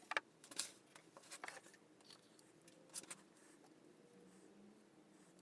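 Faint handling noises: a few short clicks and rustles in the first three seconds, then quiet room tone.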